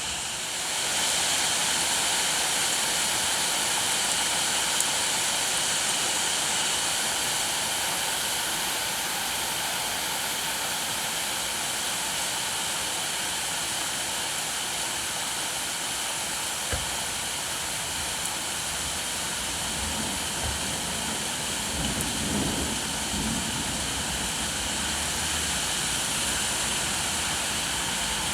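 Steady rain falling, an even hiss that holds throughout. A single click comes about 17 seconds in, and a few low knocks and a brief rumble follow between about 20 and 24 seconds.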